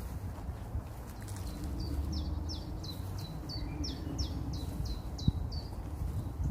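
A songbird singing a run of short, high, repeated notes that each sweep downward, about three a second, starting about a second and a half in and stopping near the end, over a steady low rumble.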